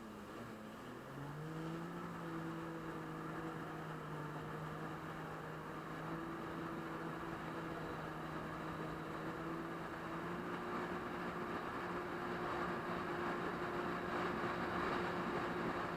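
Jet ski engine running steadily under throttle. Its pitch drops briefly near the start, then climbs as the throttle opens and steps up again about two-thirds of the way through. A rushing hiss of wind and water grows toward the end.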